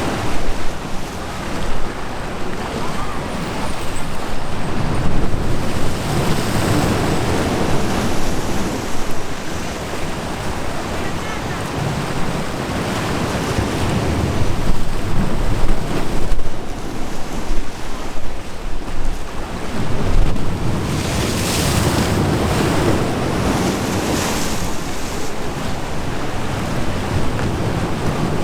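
Sea waves breaking and washing, swelling and easing every few seconds, with wind rumbling on the microphone.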